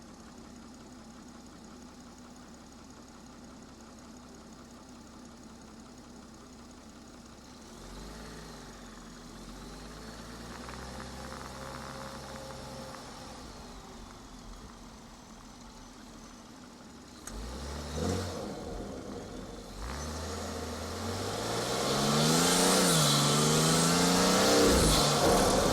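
BMW 440i's B58 turbocharged inline-six heard through a front-mount intake: it runs near idle, pulls lightly about eight seconds in, then from about twenty seconds accelerates hard, its pitch climbing and dropping at gear changes. A loud intake whoosh and turbo spool hiss rises over the engine near the end.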